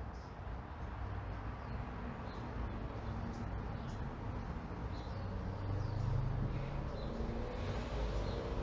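Residential street ambience: a steady low traffic rumble with faint, scattered bird chirps. From about five seconds in, a vehicle's engine hum grows louder as it approaches.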